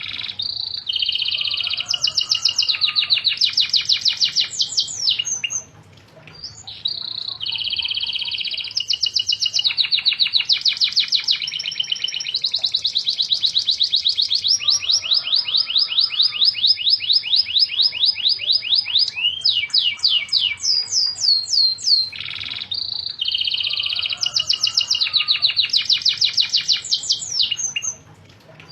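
Domestic canary singing long, vigorous song phrases of fast trills and rolls, breaking off briefly about six seconds in and again near the end.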